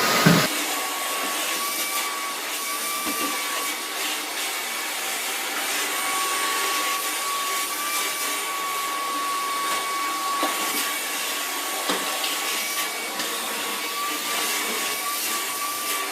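A new Hoover vacuum cleaner running steadily, with a high whine that wavers slightly in pitch. There is a knock about half a second in and a few faint knocks later on.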